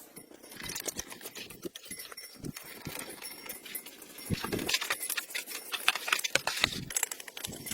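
Rapid, irregular clicks and knocks of small hard objects, with a few heavier thumps in the middle.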